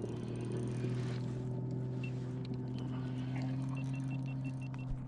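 Electric trolling motor of an Old Town Autopilot 120 kayak running with a steady electric hum. A quick run of faint high electronic beeps comes near the end.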